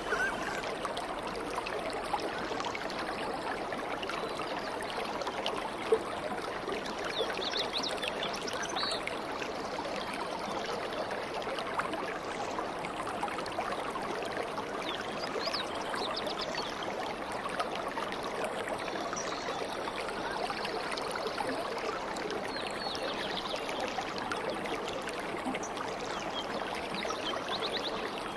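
A stream of running water, a steady rushing murmur throughout, with faint brief bird chirps now and then and a single sharp click about six seconds in.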